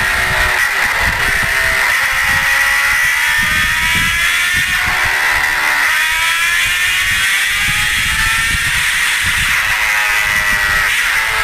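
Motorcycle engine accelerating: its pitch climbs steadily and falls back at gear changes about five and six seconds in, then climbs again. Heavy wind buffeting on the microphone runs underneath.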